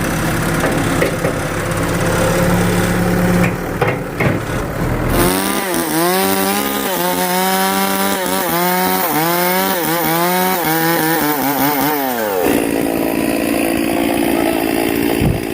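A small engine running steadily, then, from about five seconds in, revved up and down again and again until about twelve seconds in. After that it carries on at a steadier pitch.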